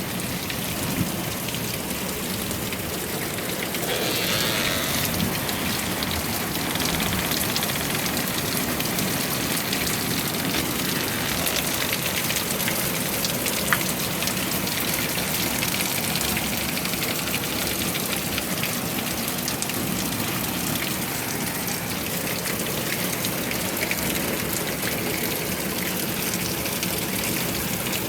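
Heavy rain falling steadily, a dense hiss of drops with many small ticks of individual drops hitting a surface. It swells slightly about four seconds in, and one sharper drop-tick stands out about halfway.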